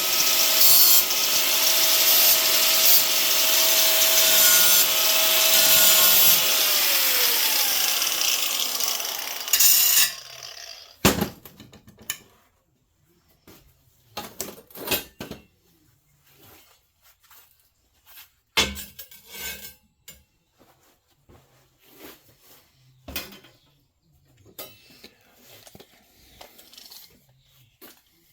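Power tool running against steel angle iron for about six seconds, then switched off, its pitch falling as it winds down. After that, three sharp metal clanks and quieter handling noises.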